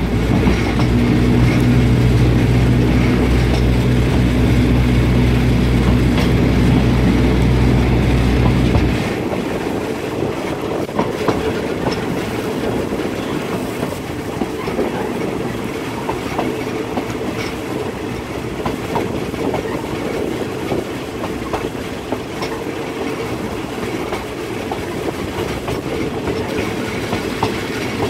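A diesel passenger train running on the rails, heard from an open carriage window. A loud, steady low engine drone fills about the first nine seconds, then drops away, leaving the rumble of the wheels with scattered clicks from rail joints.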